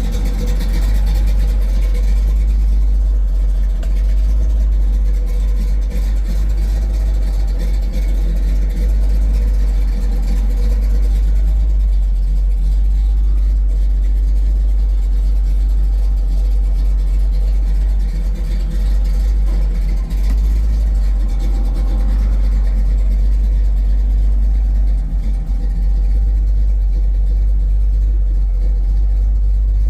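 1968 Pontiac Firebird driving at a steady pace: engine running under a heavy, constant low rumble of road and wind.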